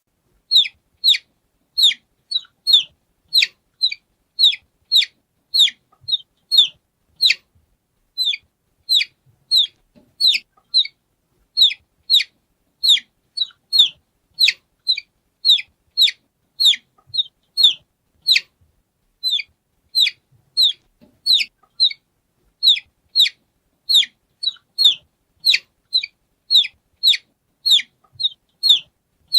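A chick peeping over and over: short, high peeps that each slide downward in pitch, about two a second, in a steady even series.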